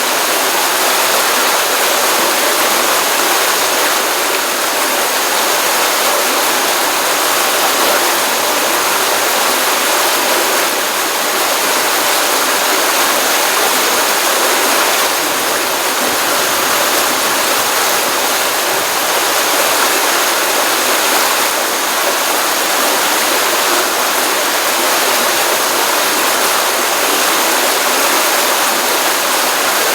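Stream water running steadily over a pond outflow: an even, continuous rushing with no breaks.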